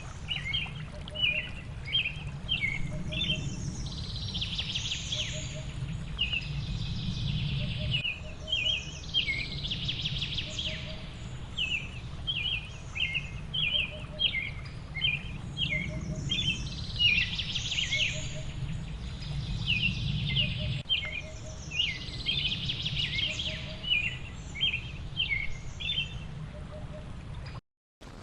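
Birds chirping in quick, repeated short notes over a steady low rushing background, with patches of higher hiss coming and going; it all cuts off abruptly just before the end.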